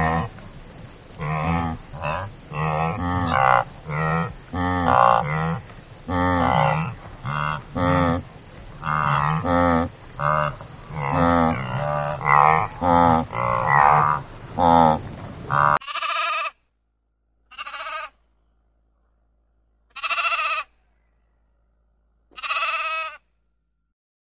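Wildebeest calling over and over, many calls close together, about two a second, with a steady high tone in the background. About 16 seconds in this cuts off suddenly, and a sheep bleats four times with pauses between.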